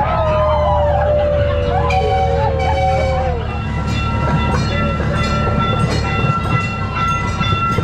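Amusement park train ride running with a steady low rumble. Over the first few seconds a wavering, siren-like wail glides up and down, then gives way to a steady high tone with light clicking.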